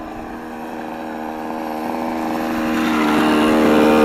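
The two-stroke gas engine of a 1/5-scale Losi 5ive-T RC truck running at a steady high pitch, growing steadily louder through the second half.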